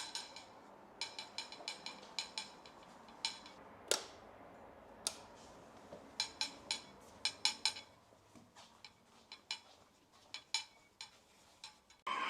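A run of light, irregular clicks and taps, small hard objects knocking, with a louder one about four seconds in and a dense cluster around six to eight seconds in.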